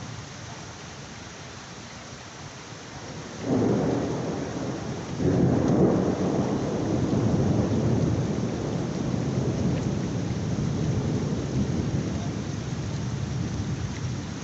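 Heavy rain falling steadily, with thunder breaking in suddenly about three and a half seconds in, then a second, louder peal a couple of seconds later that rumbles on and slowly fades.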